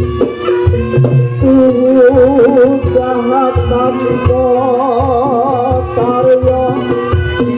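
Javanese barongan folk-music accompaniment: steady drum strokes under held, gamelan-like pitched tones. From about one and a half seconds in to about six seconds a wavering, vibrato melody line rides on top.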